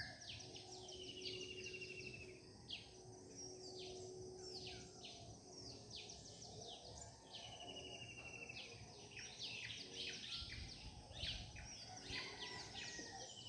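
Several birds singing together in a faint morning chorus: many overlapping short chirps and calls, with a rapid trill of evenly spaced notes falling slightly in pitch that recurs a few times.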